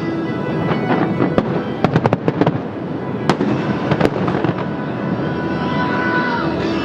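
Fireworks shells bursting in a quick run of sharp bangs and crackles, with single louder bangs a little later, over the music played with the display.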